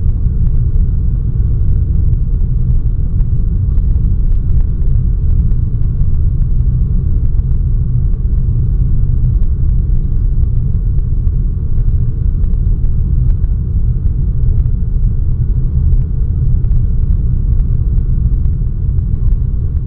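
Steady low rumble of cabin noise inside a Boeing 757 airliner, with faint scattered ticks.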